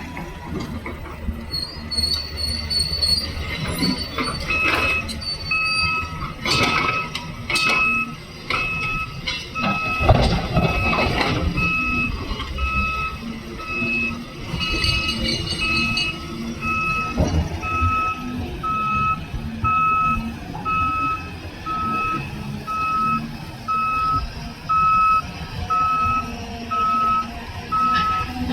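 A reversing alarm on heavy coal-mining machinery beeps steadily, about once a second, over the low rumble of diesel machinery. A few loud crashes and clatter stand out early on, the loudest about ten seconds in, typical of coal being dumped or the excavator bucket working.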